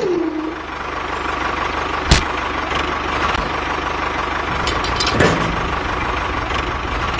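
A motor running steadily with a fast, even pulsing, with a sharp knock about two seconds in.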